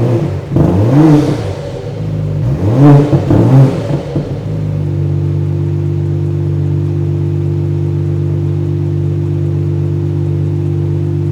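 BMW X5 50e's turbocharged inline-six running through a DCE Parts valved axleback exhaust. It is revved twice in quick succession in the first four seconds, rising and falling in pitch each time, then settles back to a steady idle.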